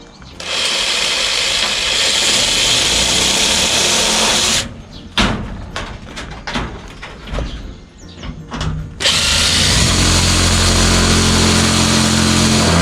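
Power drill running in two long runs of about four seconds each, with a few knocks and clicks between them.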